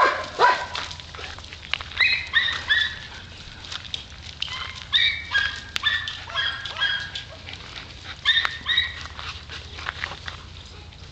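Dogs barking in short, high-pitched yips that come in quick clusters of two to four, several times over.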